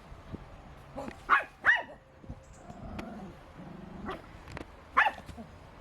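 An animal's short, loud calls: two in quick succession about a second and a half in, and one more near the end.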